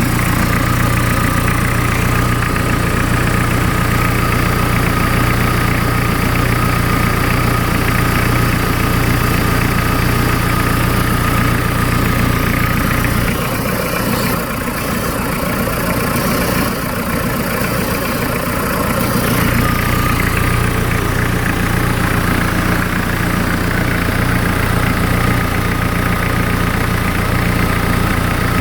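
Hyundai D4BH 2.5-litre four-cylinder turbodiesel idling steadily. Its low rumble thins for several seconds around the middle, then returns.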